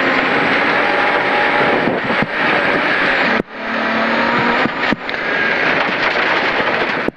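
BMW E36 rally car heard from inside the cabin, its engine running hard with loud road and tyre noise. About three and a half seconds in, the sound cuts out for a moment and then builds again, with shorter dips later, as the throttle is lifted or a gear is changed.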